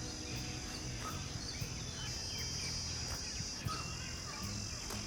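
Park ambience: a steady, high-pitched insect drone with scattered short bird chirps over it.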